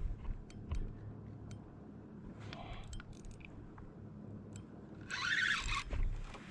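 Water sloshing around a kayak hull, with scattered light knocks and clicks on the boat and a louder splashing hiss about five seconds in.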